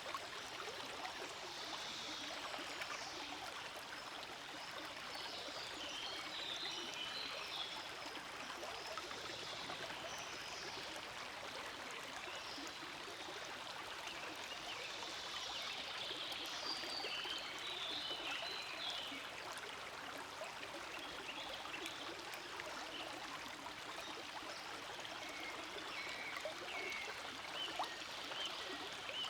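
Forest stream flowing steadily: continuous babbling water with brighter trickling and splashing that comes and goes.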